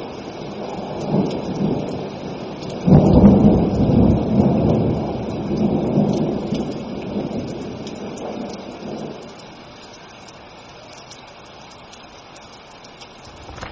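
Steady rain with a thunderclap that breaks sharply about three seconds in and rolls on, dying away after about six seconds, leaving only the rain.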